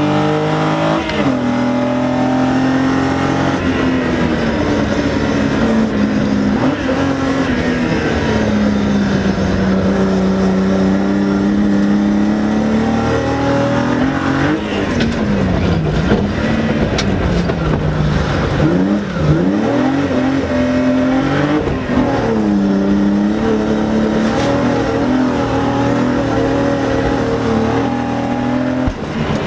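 BMW E30 rally car's engine, heard from inside the cabin, revving hard and falling back again and again as the car accelerates, shifts and lifts off, with a few deep drops in revs about halfway through.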